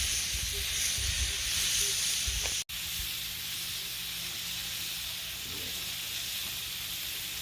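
Steaks sizzling on a grill over a campfire: a steady hiss that cuts out for an instant about two and a half seconds in, then carries on.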